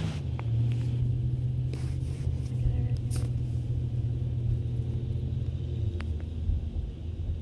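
Low steady rumble of a running vehicle engine, with a few faint clicks.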